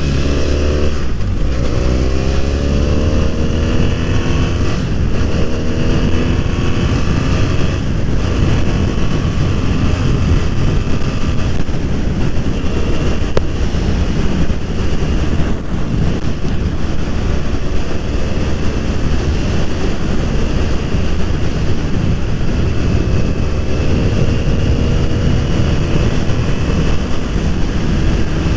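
BMW F 800 R's parallel-twin engine accelerating, its pitch rising several times in the first few seconds as it pulls through the gears, then cruising under heavy wind rush on the microphone, with another rise in pitch near the end.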